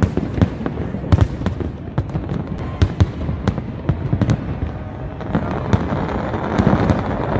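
Aerial fireworks display: shells bursting in quick, irregular succession, sharp bangs over a constant low rumble, getting busier and denser about five seconds in.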